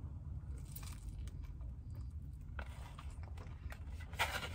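A person biting into a sushi roll and chewing it, with small wet mouth noises and a louder noisy burst of chewing about four seconds in, over a low steady hum.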